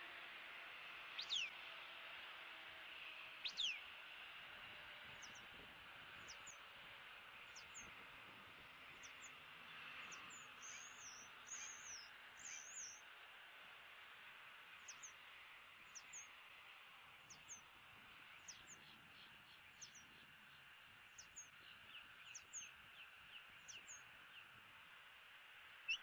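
Faint wild bird calls: short, high, down-slurred notes repeated about once a second, with two louder long down-sweeping whistles in the first few seconds and a brief warbled phrase about ten seconds in, over a steady hiss.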